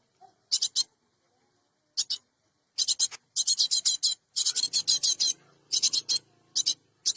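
Cinereous tit (gelatik batu) giving harsh, rasping churr calls: rapid runs of scratchy notes in repeated bursts, with a short pause about a second in.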